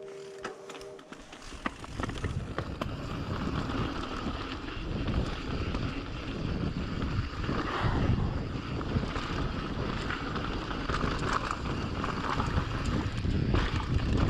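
Mountain bike rolling fast down a dirt trail, heard as a rough rumble of wind buffeting the action-camera microphone, with tyre noise and the bike's rattles and clicks. It starts about a second and a half in, after a faint steady tone, and grows a little louder.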